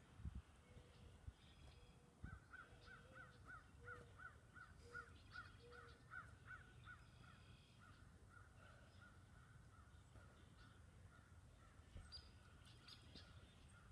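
Faint outdoor quiet with a bird calling a fast, even run of short chirps, about four a second, through most of the clip. A couple of soft thuds near the start, feet in cleats landing on grass.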